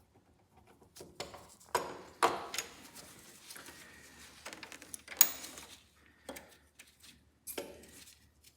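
Scattered knocks, clicks and handling noise of parts and tools being worked by hand on a garden tractor's brake linkage, with a sharp click about five seconds in.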